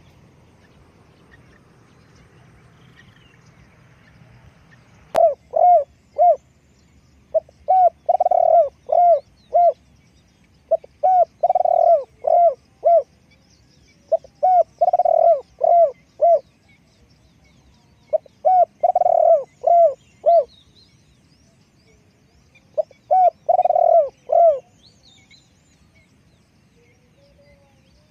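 Spotted dove cooing: six phrases of several low, repeated coos each, the first about five seconds in and the last a few seconds before the end.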